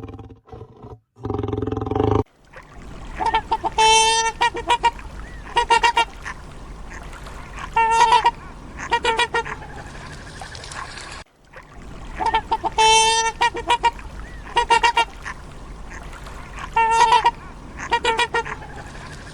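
Waterfowl honking: loud, nasal calls repeated in clusters of two or three, about every second or two. Before them, a low call cuts off about two seconds in, and the calls break off briefly just past halfway and start again.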